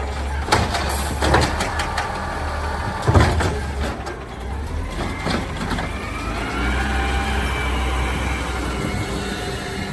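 Garbage truck's diesel engine running with a low rumble, with several sharp metal clanks in the first few seconds, then a high whine rising in at about six seconds and holding.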